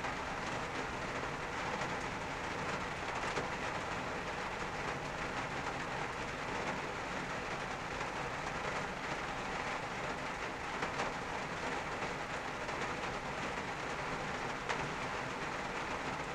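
Steady rain falling on a car's roof and windshield, heard from inside the cabin, with an occasional louder drop standing out.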